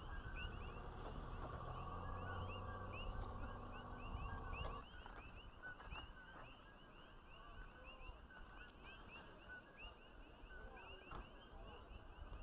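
A dense, steady chorus of short rising chirps from many small animals calling together. Under it is a low mechanical hum with a few held tones, which stops suddenly about five seconds in.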